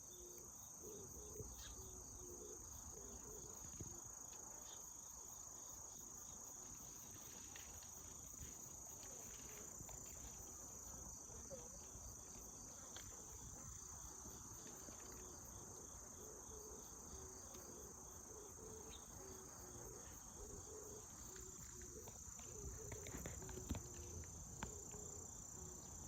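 Faint, steady, high-pitched insect chorus, a continuous drone with no breaks, with a few faint clicks near the end.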